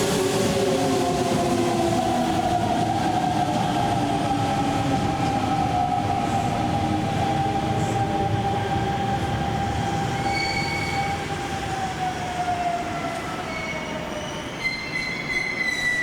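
Electric commuter train pulling into the station and braking: a steady motor whine slides slowly down in pitch over the rumble of the wheels and gradually fades. From about ten seconds in, thin high-pitched brake and wheel squeals ring out as it slows to a stop.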